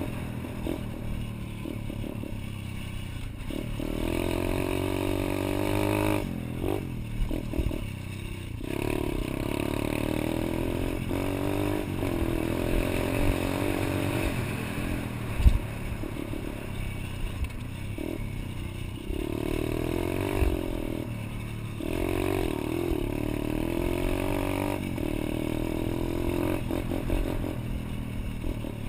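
Pit bike engine being ridden, revving up and down repeatedly with short drops in throttle between pulls. Some clattering and a sharp knock about halfway through.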